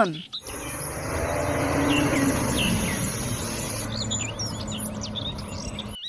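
Outdoor ambience: small birds chirping several times, mostly in the second half, over a steady background hiss. A high insect-like drone runs under them and stops about four seconds in.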